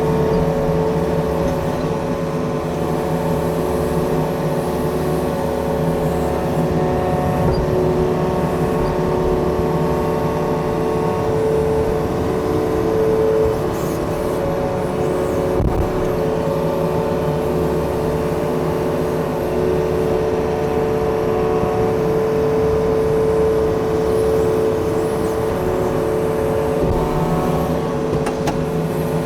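Yanmar diesel engine on a digging machine running steadily under load while it works at a tree stump, with a brief dip in level about halfway through.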